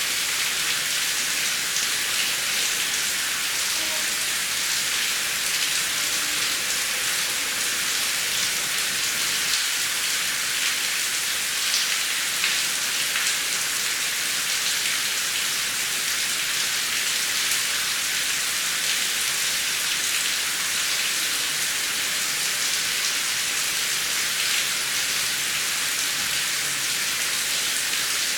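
Steady heavy rain falling on a surface, a constant hiss with fine drop patter and no thunder.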